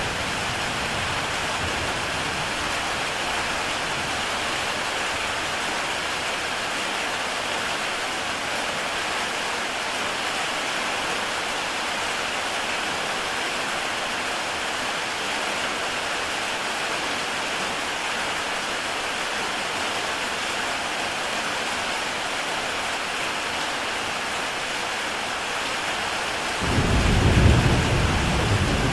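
Heavy rain pattering steadily on a tile roof. Near the end a sudden deep rumble of thunder comes in and becomes the loudest sound.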